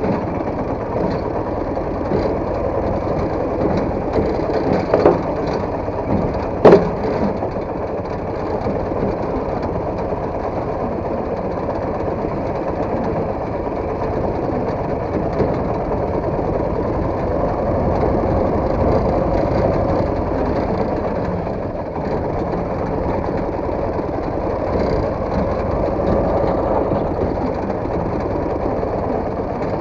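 Motorcycle engine running steadily while under way, with two sharp knocks about five and seven seconds in, the second the loudest.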